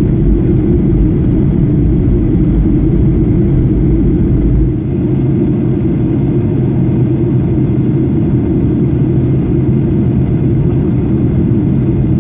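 Boeing 737-800 cabin noise in flight: a steady, deep drone of its CFM56 turbofan engines and airflow over the fuselage. The deepest rumble eases slightly about five seconds in.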